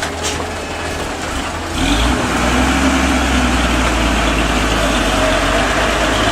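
Truck engine running, getting louder about two seconds in and then holding steady and deep.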